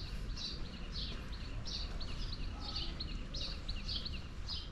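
A small bird giving short, high chirps over and over, about two a second, over a steady low rumble of background noise.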